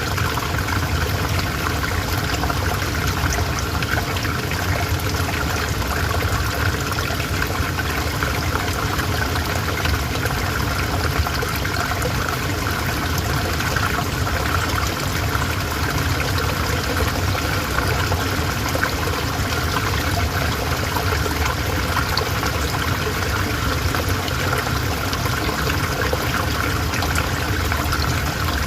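A calm river flowing, a steady unbroken running-water sound.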